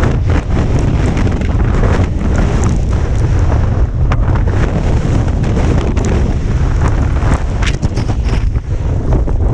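Strong gusty wind blasting the microphone, a loud steady rumble with short crackles scattered through it.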